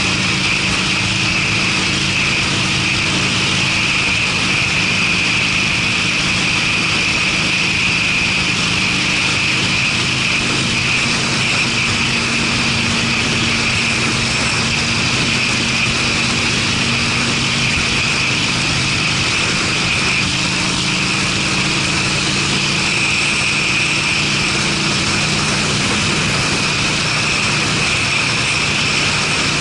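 Harley-Davidson Sportster's V-twin engine running steadily through Screamin' Eagle aftermarket mufflers while the bike is ridden at speed, under a constant rush of noise. Its pitch shifts slightly about two-thirds of the way in.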